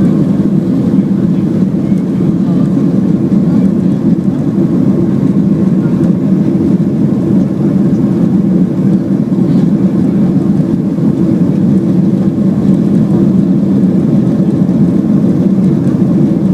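Airliner cabin noise during the climb after take-off: a steady, loud, low rumble of jet engines and rushing air that does not change.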